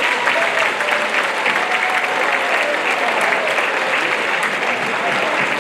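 Audience applauding steadily after a choir song, with a few faint voices and cheers mixed in.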